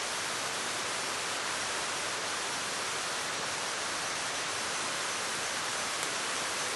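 Steady, even rushing of a waterfall's falling water.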